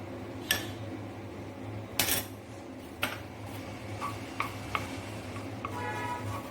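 Metal spoon knocking and scraping in a kadhai while stirring ginger-garlic paste into hot oil: several sharp clinks, the loudest about two seconds in, and a short ringing of metal on metal near the end.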